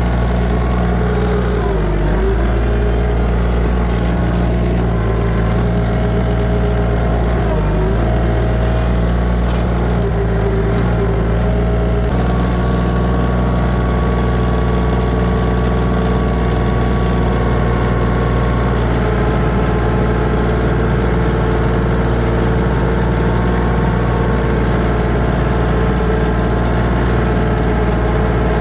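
Tractor engine running steadily, heard close from the driver's seat; its pitch dips briefly twice, about two and eight seconds in.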